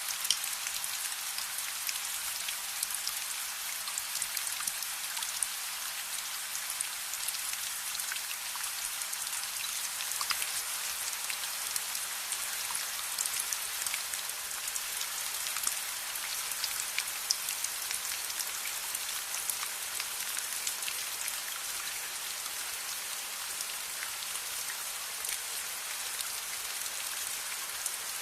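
Steady rain, an even hiss of falling water, with many small sharp ticks of individual drops scattered through it.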